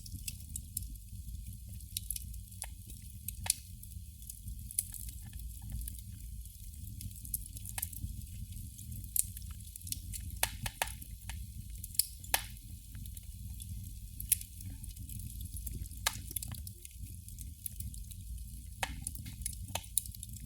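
Candle flame crackling: irregular sharp pops and ticks, a few of them louder, over a steady low rumble and faint hiss.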